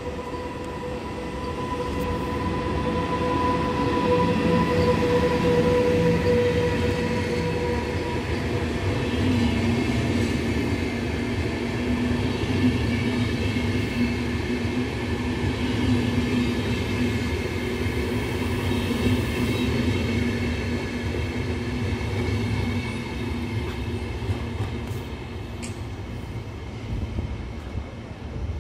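Electric passenger train with double-deck coaches passing close by on the station track. A steady whine is heard for the first eight seconds or so as the locomotive goes by, then the coaches roll past with a continuous rumble of wheels on rail, easing off near the end.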